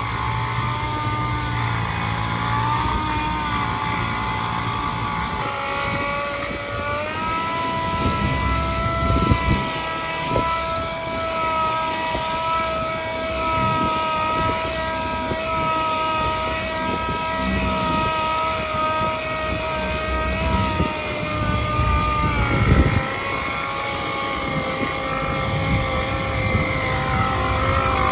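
A motor-driven machine running steadily with a whine. The pitch steps up about five seconds in and dips near the end, with a few low knocks around it.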